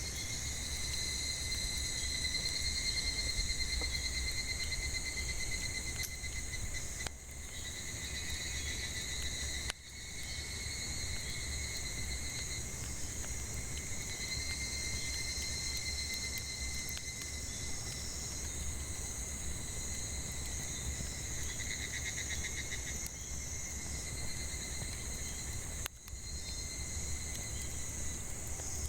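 A steady chorus of cicadas, several high shrill tones that hold on with slight pulsing, with a few faint crackles from a wood campfire.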